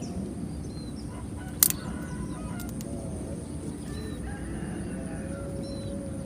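Domestic fowl calling in the distance, thin gliding calls, one held for about a second near the end, over a steady outdoor background. One sharp click about one and a half seconds in.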